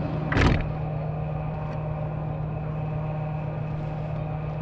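A steady low mechanical hum, with a brief rushing noise about half a second in.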